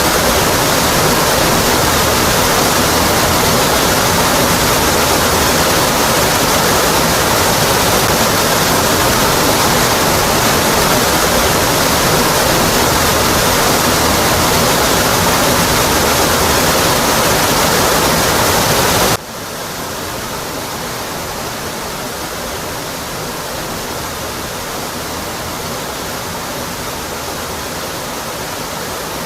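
Rocky Brook Falls waterfall, a steady, loud rush of falling water. About two-thirds of the way through, the sound cuts suddenly to a quieter, thinner rush that then holds steady.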